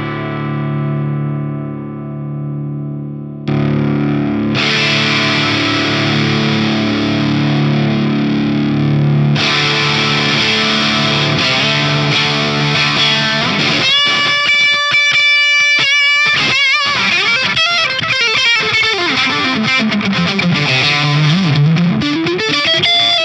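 Electric guitar played with distortion through a clone of a Soldano SLO-100 amp. It starts with held chords, moves to sustained single notes with vibrato about two-thirds of the way through, and near the end one note slides down in pitch and back up.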